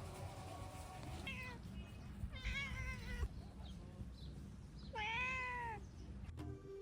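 An animal calling three times: short, high, meow-like cries that rise and fall in pitch. The last one is the loudest and the longest.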